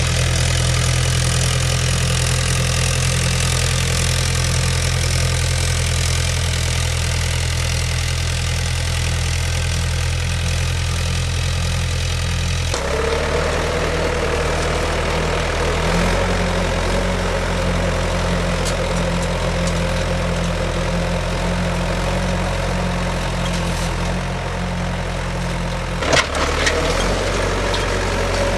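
Tractor engine running steadily. About halfway through its note changes and a steady whine joins it, with a few sharp knocks near the end.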